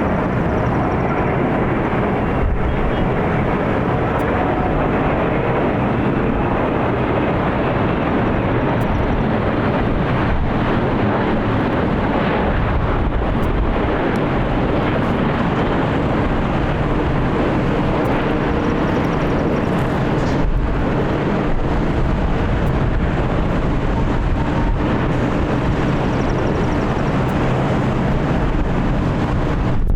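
Boeing 787 Dreamliner jet engines running steadily as the airliner passes, a loud, even rush of engine noise.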